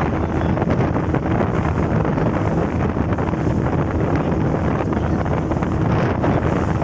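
Wind buffeting the microphone aboard a small motorboat under way, over the steady drone of its engine.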